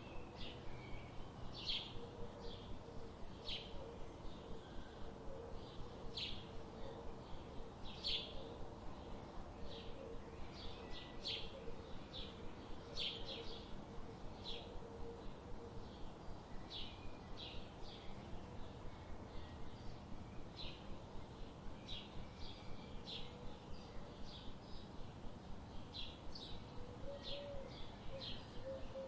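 Birds chirping: short, high chirps repeated every second or so, over a steady low background hiss.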